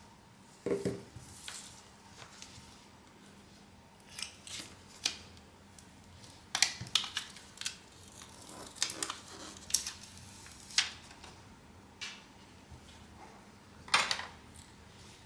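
Irregular small clicks and taps of metal repair tools and phone parts being handled during a smartphone repair, a dozen or so sharp ticks with pauses between them.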